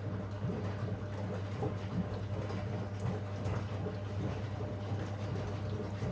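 Zanussi DL22 washing machine running: a steady low motor hum with water swishing and small irregular knocks as the drum turns.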